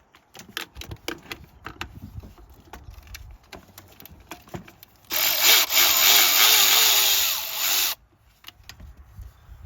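Cordless electric ratchet, a Milwaukee M12 Fuel 3/8-inch, running for about three seconds with a wavering whine, turning out a coil pack bolt, then stopping abruptly. Before it, light clicks and knocks of the socket and tool against the engine.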